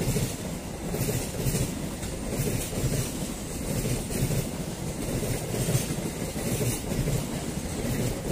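Coaches of the Malabar long-distance passenger train passing close by at speed: a steady rumble with the wheels clattering in a rhythm over the rail, the last coaches going by near the end.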